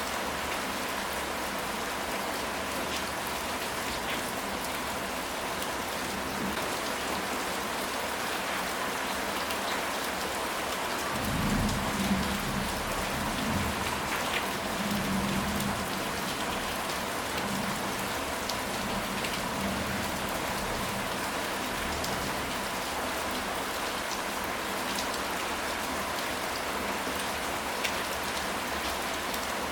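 Steady rain falling, with scattered individual drops ticking on a surface. About eleven seconds in, a low rumble swells for roughly five seconds and then fades.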